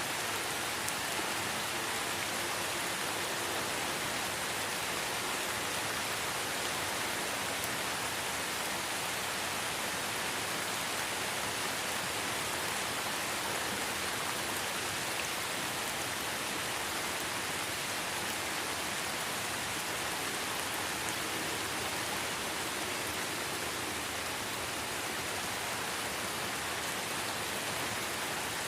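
Steady light rain falling in a forest, an even hiss of drops on leaves with faint fine patter.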